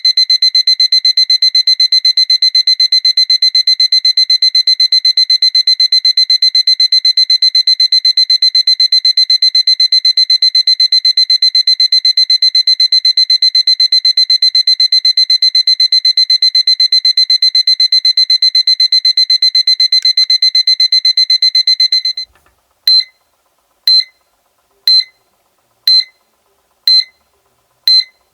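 SEIKO electronic alarm clock beeping: a high-pitched, rapidly pulsing alarm tone that runs unbroken for about 22 seconds. It then stops and gives way to short single beeps about once a second.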